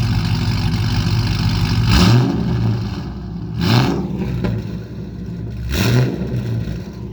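2011 Camaro SS's LS3 6.2-litre V8, straight-piped through long-tube headers with no mufflers, idling and then blipped three times, each rev rising sharply and dropping back to idle.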